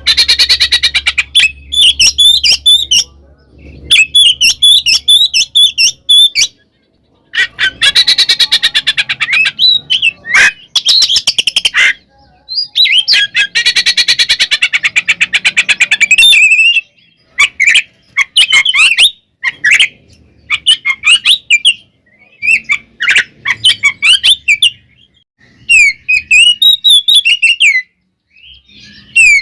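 Oriental magpie-robin (kacer) singing loudly in bursts: several-second runs of rapid rattling chatter alternate with varied whistled phrases, broken by short silent gaps.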